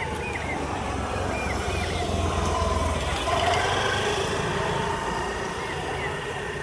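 A motor vehicle passing: a low engine rumble that swells about two to three seconds in and then fades, with a few short high chirps over it.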